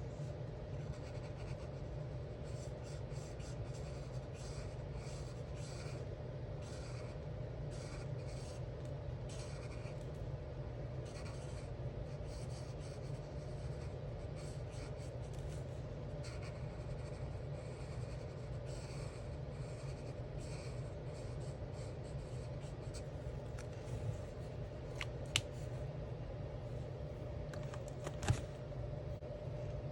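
Alcohol marker tips stroking over coloring book paper in many short, scratchy strokes. A few sharp clicks come near the end, the loudest about two seconds before it.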